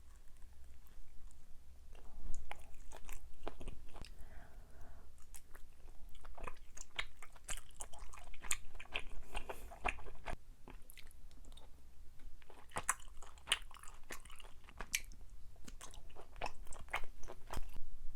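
Close-miked biting and chewing of Korean rice cakes (tteok), with many quick irregular mouth clicks.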